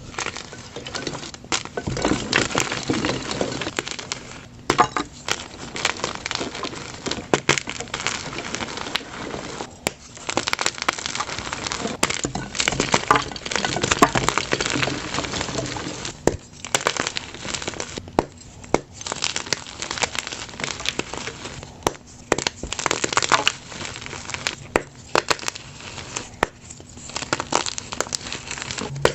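Blocks of plain gym chalk crushed by hand, crunching and crumbling continuously with many sharp snaps and crackles.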